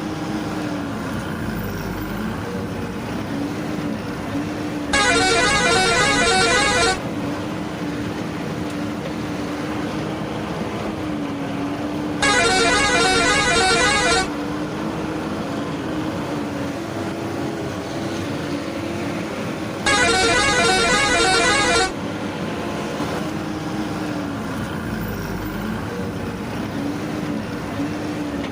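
A vehicle horn blasts for about two seconds, repeating at even intervals about every seven and a half seconds, over a steady engine drone.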